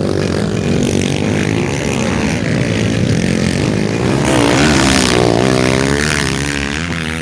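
Motocross bikes' engines revving up and down as they race around the track, with the loudest pass about four to five seconds in.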